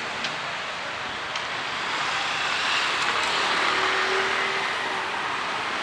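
Street traffic on a wet road: an even hiss that swells a couple of seconds in as a vehicle passes, then eases.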